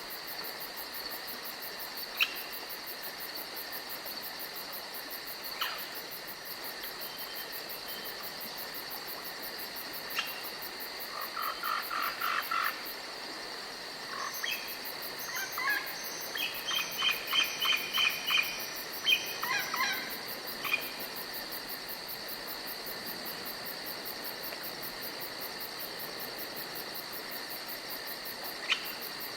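Forest ambience: insects chirping in a steady high, fast pulse throughout, with a bird calling in runs of quick repeated notes in the middle. A few short, sharp ticks stand out here and there.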